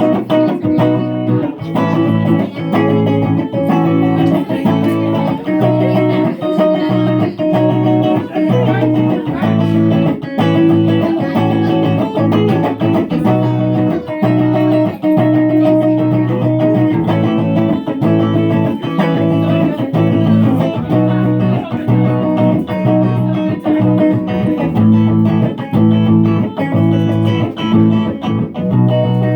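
Live electric guitar music, likely a Fender Jazzmaster: an instrumental passage of picked notes in a repeating pattern over low bass notes.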